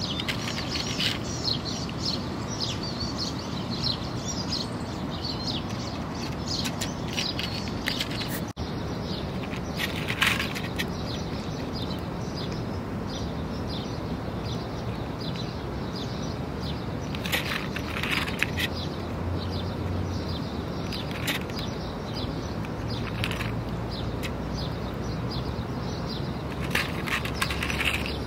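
Small birds chirping in quick, short notes over a steady background noise. The chirping is dense at first and grows sparse after a brief dropout about a third of the way in, leaving a few isolated sharp chirps or clicks.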